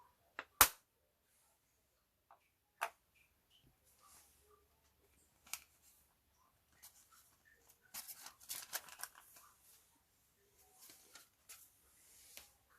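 Clear slime being handled and mixed with makeup: scattered sharp clicks, the loudest just after the start, and about a second and a half of crackly little pops some eight seconds in.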